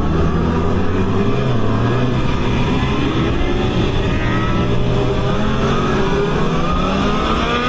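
A motor vehicle running with road noise, its engine note slowly climbing as it gathers speed.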